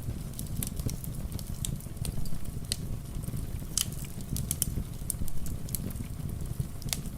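Wood fire crackling, with irregular sharp pops and snaps, over a steady low rumble of rain.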